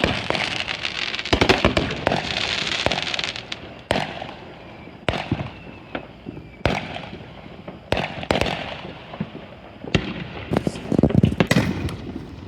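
Backyard fireworks going off: repeated sharp bangs and pops at uneven intervals, with a crackling hiss over the first few seconds and a quick run of bangs near the end.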